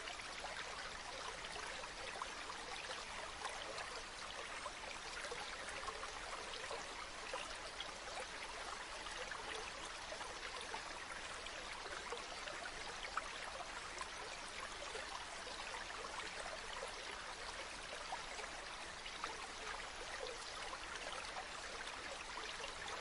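A river flowing steadily: an even rush of running water with fine little splashes and trickles in it.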